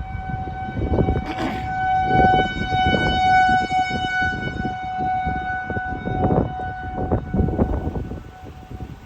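Outdoor tornado warning siren sounding one long steady tone that fades near the end, the signal that a tornado warning is in effect.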